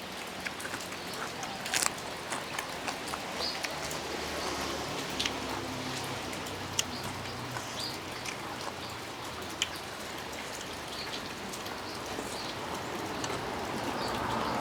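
Steady rain falling, with scattered sharp drops ticking on a surface.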